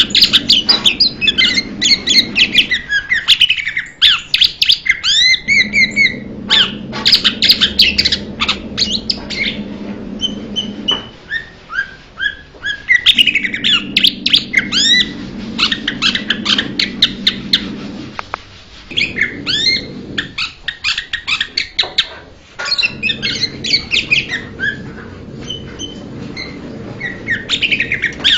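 Blue-winged leafbird singing: fast runs of varied whistles and chirps, in phrases of a few seconds broken by short pauses, over a low hum that comes and goes with the phrases.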